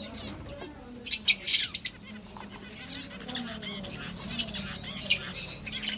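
Aviary finches chirping and calling: quick clusters of short, high chirps, a busy burst about a second in and another run of chirps in the second half.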